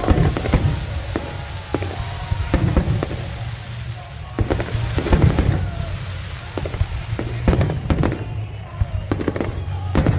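Aerial fireworks bursting in a rapid, irregular run of sharp booms, with clusters of bursts near the start, about three seconds in, about five seconds in and again near eight seconds.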